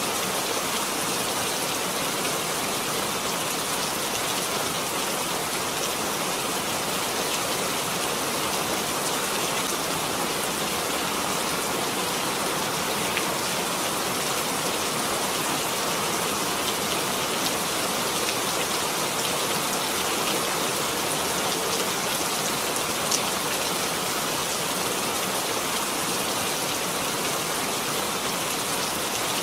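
Steady rainfall, an even hiss of many drops with a few faint separate drop ticks.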